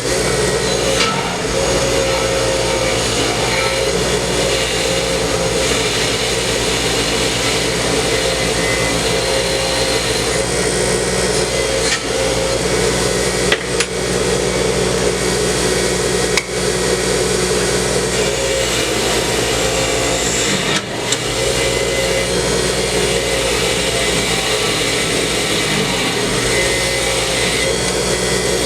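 Electric wire wheel running steadily and brushing rust and paint off steel bicycle parts down to bare metal, with a few brief dips as the part is lifted and moved.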